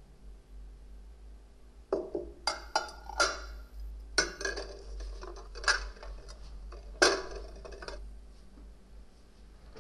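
Glass and crockery clinking and knocking, about ten separate strikes with short ringing tails, bunched between about two and eight seconds in.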